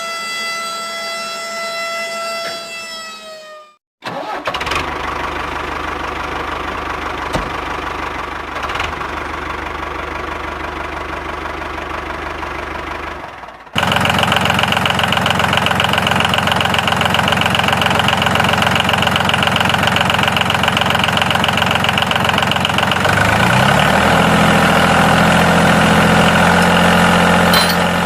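A small electric motor driving a homemade model's fan runs with a steady whine, in several joined takes. About three seconds in, it slows slightly and stops; near the end its pitch climbs as it speeds up.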